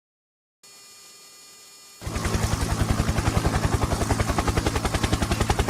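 A faint steady electrical hum, then about two seconds in a helicopter's rotor and engine come in abruptly and loud, the blades beating in a fast, even rhythm.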